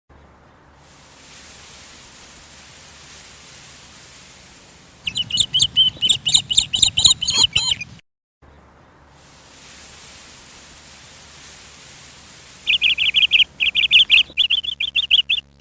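A bird chirping in fast runs of short, repeated high notes, in two bouts. The first bout comes about five seconds in and lasts some three seconds; the second starts near the end. Before each bout there is a faint steady hiss.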